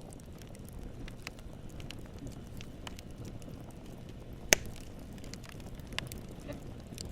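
Campfire crackling: a steady low rumble of burning wood with scattered small pops, and one loud sharp pop about four and a half seconds in, followed by a smaller one about a second and a half later.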